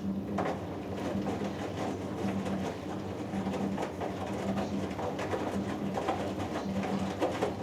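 Hoover Dynamic Next front-loading washing machine in its wash phase: the drum tumbling the load through the water, a low motor hum that comes and goes in short pulses over sloshing and soft knocks of wet laundry.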